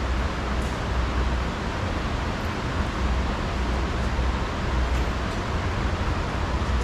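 Steady rushing background noise with a low rumble that swells and fades, and a few faint ticks.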